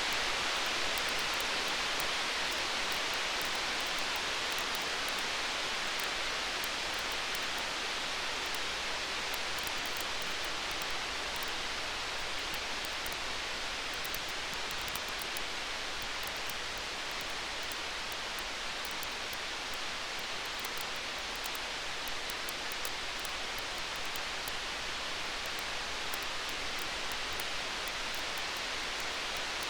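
Campfire burning: a steady hiss with many small, faint crackling pops throughout.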